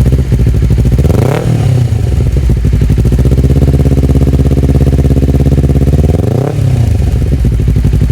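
Honda CBR250RR engine idling through an Akrapovic slip-on exhaust, blipped twice: two quick revs that rise and fall back, about a second in and again near six and a half seconds.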